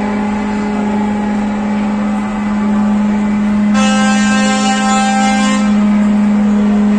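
Truck air horns: one low horn held in a long, steady blast, with a second, higher-pitched horn joining it for about two seconds in the middle.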